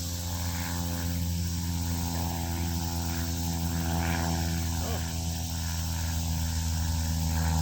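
Outdoor ambience: a steady low motor hum with a steady high insect trill over it.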